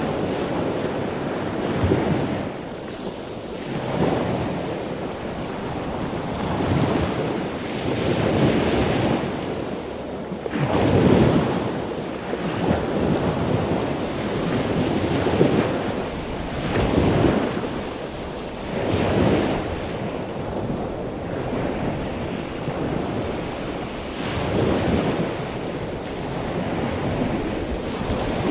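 Wind buffeting the microphone over rushing, splashing sea water from a sailboat under way, swelling in surges every couple of seconds.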